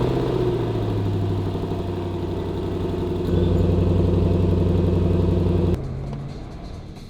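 Range Rover Sport SVR's supercharged 5.0-litre V8, just started, idling with a steady pitch. It grows louder about three seconds in, then drops abruptly to a quieter level near the end.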